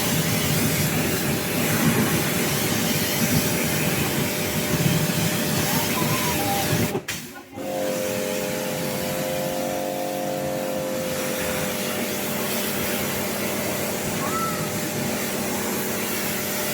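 Pressure washer running and spraying, a steady loud noise. It cuts out briefly about seven seconds in, then comes back steadier with a steady motor hum.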